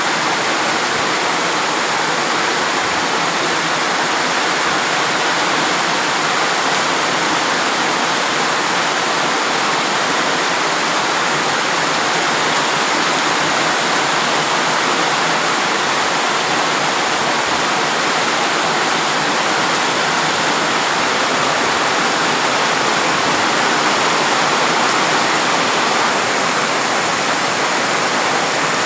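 Steady heavy rain falling, a dense, even hiss with no let-up.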